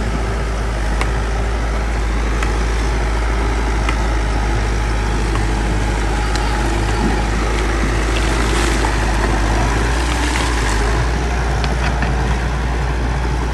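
Bulldozer's diesel engine running steadily under load with a deep rumble, with scattered light clicks and knocks.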